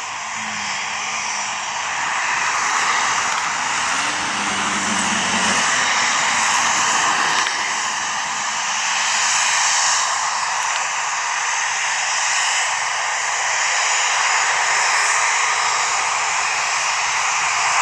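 Jet aircraft engines running with a steady rushing noise that swells and eases slightly.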